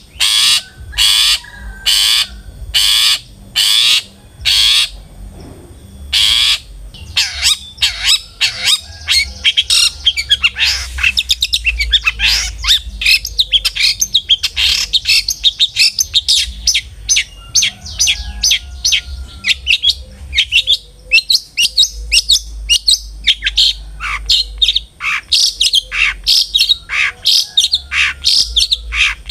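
Long-tailed shrike (cendet) calling. It opens with a series of harsh, evenly spaced screeches over the first five seconds, then breaks into a fast, dense chattering song of varied notes.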